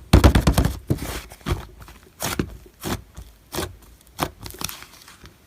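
Hands squishing and poking slime, a quick cluster of sticky clicks and pops at the start, then single pops about every half second.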